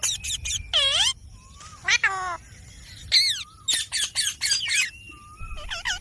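Indian ringneck parakeet calling in a rapid series of short, shrill squawks, many of them sliding down in pitch and some dipping and rising again.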